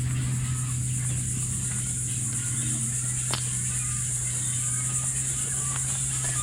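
Steady high-pitched insect drone, like crickets or cicadas in mangroves, with faint scattered bird calls and an occasional click, over a low steady hum; it all cuts off suddenly at the end.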